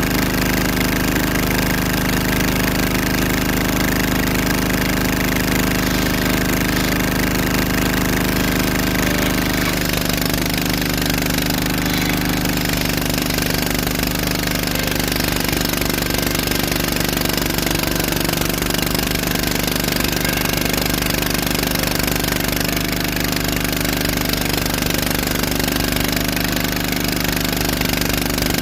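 An engine running steadily under load with a rapid knocking beat, its pitch shifting slightly about ten seconds in.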